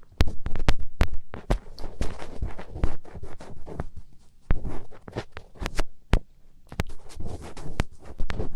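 ASMR finger ear-cleaning: fingertips rubbing, scratching and pressing on a microphone's ear, heard as close, irregular crackles and taps over low rumbling thuds.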